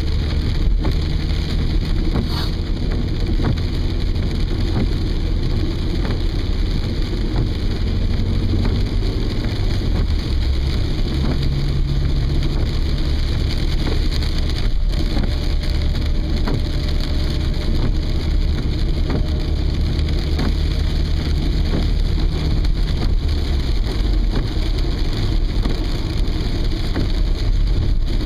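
Steady low rumble of a car heard from inside the cabin, its engine tone shifting a few times, with rain hitting the car as scattered light ticks.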